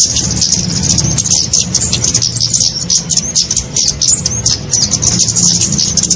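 Bird-lure recording of small songbirds such as flowerpeckers: dense, rapid high-pitched chirping and twittering that never pauses, over a low hum.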